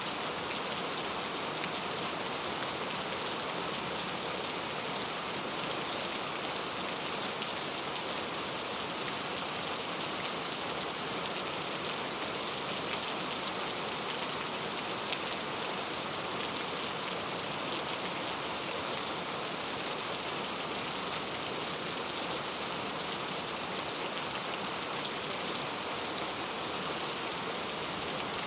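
Steady rain falling, an even hiss of drops on surfaces with fine pattering and no thunder.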